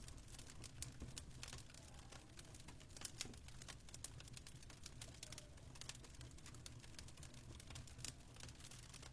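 Fireplace fire crackling faintly, with irregular sharp clicks and an occasional louder pop, over a low steady hum.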